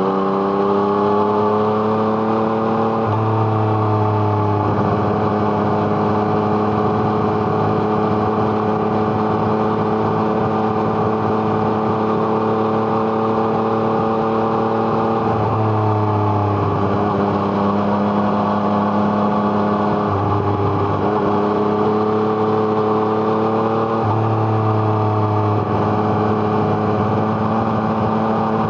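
Yamaha MT-09's inline three-cylinder engine running through an Arrow Thunder exhaust under way: the engine note climbs slowly, then dips and climbs again about four times as the revs change.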